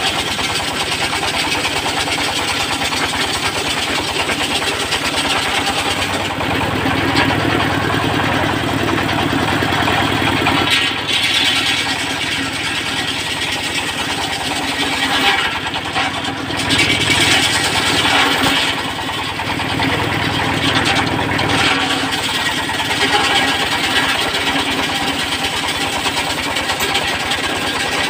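Stationary diesel engine of a circular sawmill rig running steadily, its sound shifting several times.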